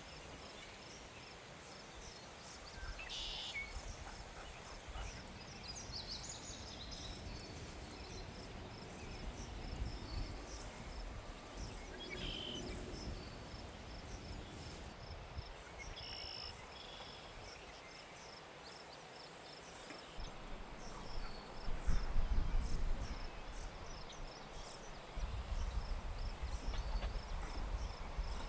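Outdoor ambience of insects chirping in a steady, fast rhythm, with a few brighter calls now and then. In the last third, louder low rumbling and knocks come in over it.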